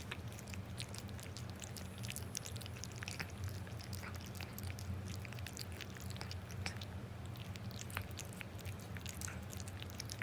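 Elderly cat eating, with irregular small wet clicks and smacks of chewing and licking all through, over a steady low hum.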